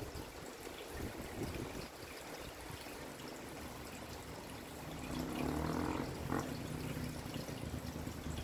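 Rain falling steadily, a constant hiss and patter of water. About five seconds in, a low humming rumble rises under it.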